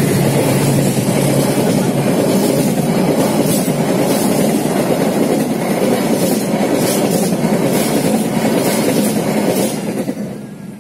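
Passenger train coaches running past close to the track, their wheels rumbling and clicking over the rail joints. The sound falls away about ten seconds in as the last coach clears.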